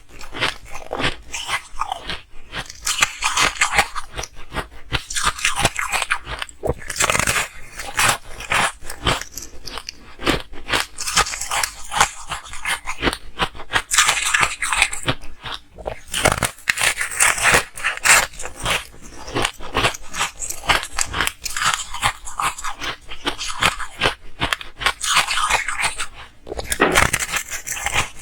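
Ice being bitten and chewed close to the microphone: dense, irregular crunching, many crunches a second.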